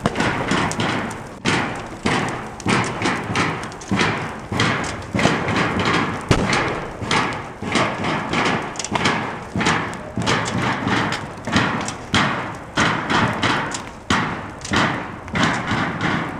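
Steady rhythmic banging, loud knocks about three every two seconds, each ringing briefly, over continuous crowd noise.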